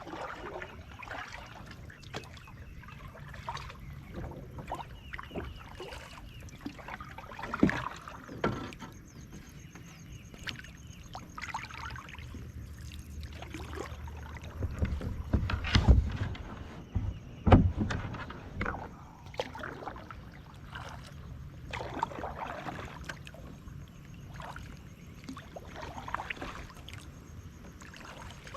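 Kayak paddling: the paddle dips and splashes irregularly, with water trickling off it. A few heavier knocks and thumps come, the loudest about halfway through.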